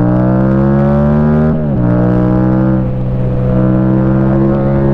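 Yamaha FZ-07's 689 cc parallel-twin engine accelerating under way: the pitch climbs for about a second and a half, drops sharply with an upshift, then holds steady, easing briefly about three seconds in before pulling on again.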